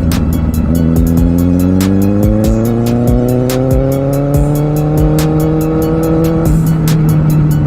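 Kawasaki Z750R inline-four engine pulling steadily up through the revs under acceleration, then dropping sharply about six and a half seconds in at an upshift, with sharp clicks ticking throughout.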